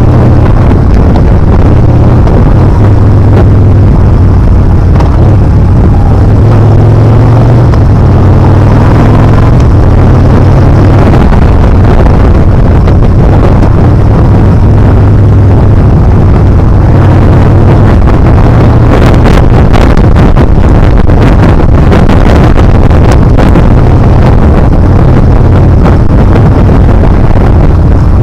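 Yamaha Bolt R-spec's air-cooled V-twin engine running on a steady ride, with wind rushing over the action camera's microphone and some crackling buffets in the second half.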